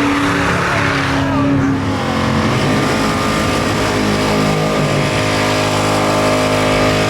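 Car engine revving, held at steady revs that step up and down a few times.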